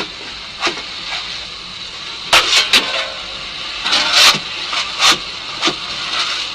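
Steam locomotive sound effect: a steady hiss of steam as the engine's fire gets going, broken by several short, sharp bursts of noise.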